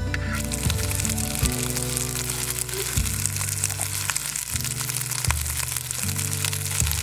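Food sizzling over a campfire, a steady crackly hiss that starts at once. Background music with sustained low notes changing about every second and a half plays over it.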